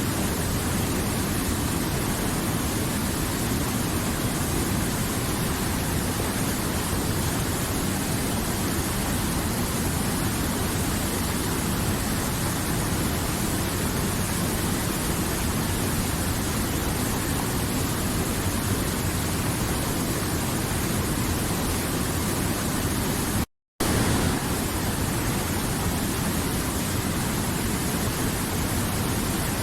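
River water flowing: a steady, even rushing noise, broken once by a split-second gap of silence about three-quarters of the way through.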